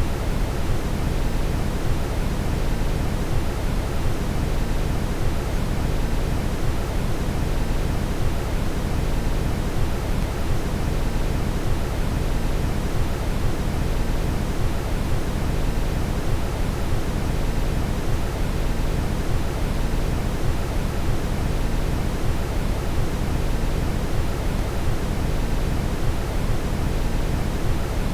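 Steady brown noise: a deep, even rushing hiss, heaviest in the low end, with no change in level.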